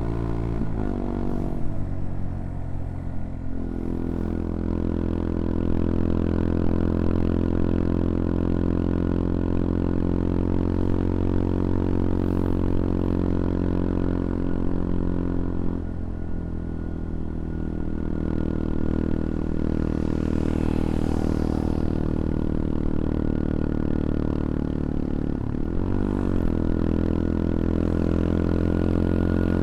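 CFMoto Papio XO-1's single-cylinder engine running under load on the move, revs held steady for long stretches. The revs dip and climb back three times: about two seconds in, around sixteen seconds, and near twenty-six seconds.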